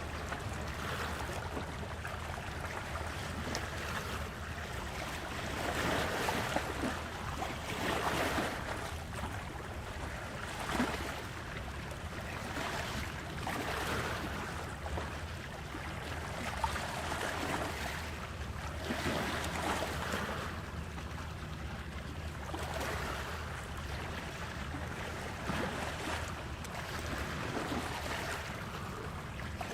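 Sea water washing and surging in slow swells every couple of seconds, with wind on the microphone over a steady low hum.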